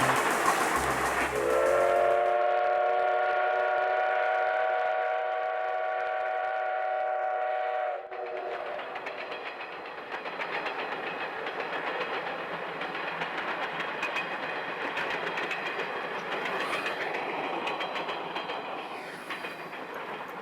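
Steam locomotive's whistle sounding one long blast of about six seconds, followed by the train running with a rhythmic rail clatter. Synthesizer music fades out in the opening two seconds.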